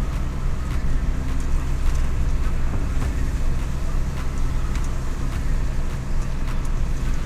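Truck engine running steadily with a low drone, with occasional light clicks and rattles.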